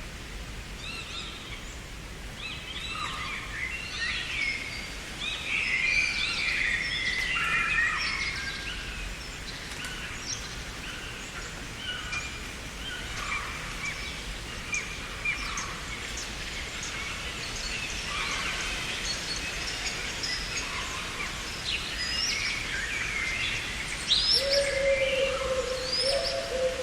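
Many songbirds chirping and singing over a steady background hiss, busiest a few seconds in. Near the end a sustained low tone comes in, with a small step up in pitch.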